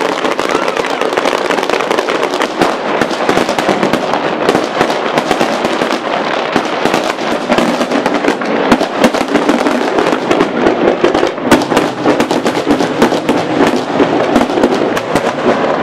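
Fireworks display going off in a dense, continuous run of rapid cracks and bangs, with no pause.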